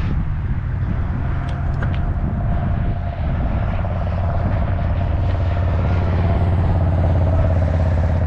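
Road traffic running past in a steady low rumble that swells louder in the second half.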